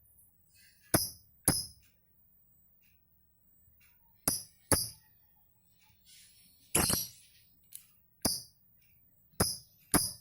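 Lovebird giving short, shrill chirps, about ten of them, many in quick pairs, with quiet gaps between.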